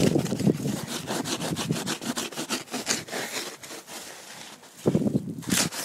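Rapid repeated scraping strokes, about three or four a second, as ice-crusted snow is scraped and brushed off a car's surface. The strokes are louder at the start and again about five seconds in.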